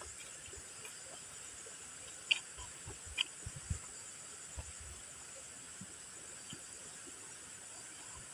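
Crunchy fried snack being chewed close to the mouth: a few sharp crunches a couple of seconds in, with softer chewing sounds between them, over a steady background hiss.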